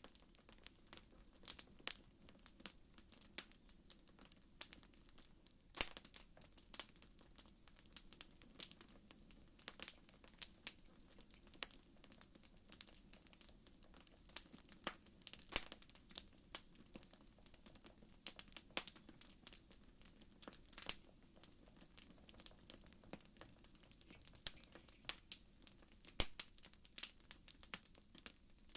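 Wood fire crackling: irregular sharp pops and snaps, a few louder ones standing out, over a faint steady low rumble.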